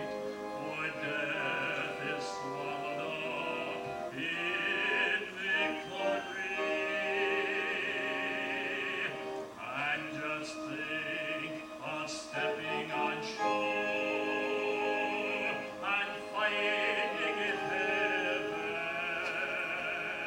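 Music: a singing voice holding long notes with vibrato, in an operatic style, over a sustained accompaniment.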